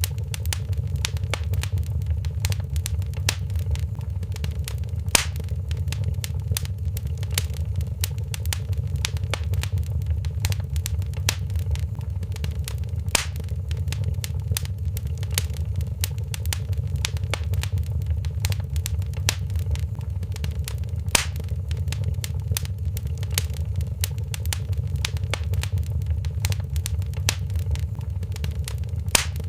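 Wood fire in a fireplace crackling steadily, with constant small crackles and a few louder pops about every eight seconds, over a low steady rumble.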